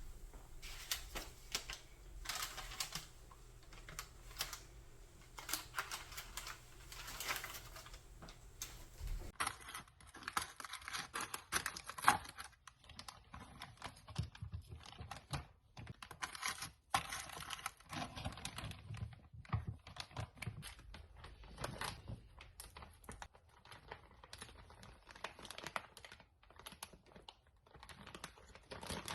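Rapid, irregular small clicks and taps, like objects being handled, with a change in sound about nine seconds in.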